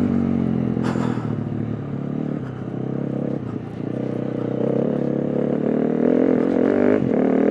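The single-cylinder four-stroke engine of a KTM 350 EXC-F dirt bike runs under riding load, its revs dropping off and then climbing again. A brief sharp clatter comes about a second in.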